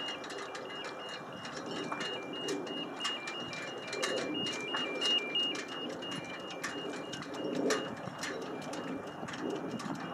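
Birds calling: a high two-note pattern stepping back and forth several times a second, with scattered sharp clicks and low irregular sounds under it.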